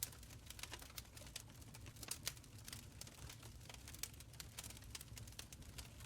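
Wood fire burning in a stone fireplace, crackling with irregular small pops and snaps over a soft low rumble; a couple of louder snaps come about two seconds in.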